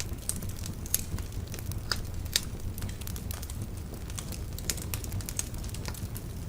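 Wood bonfire burning and crackling: irregular sharp pops and snaps over a steady low rumble.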